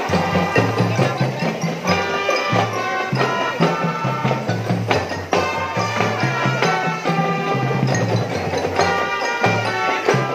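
Drum band playing: a melody of sustained pitched notes over a steady beat of low drums and percussion.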